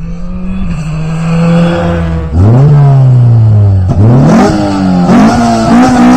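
Rally car engine at full throttle, growing much louder about two and a half seconds in, its revs climbing and then dropping sharply several times.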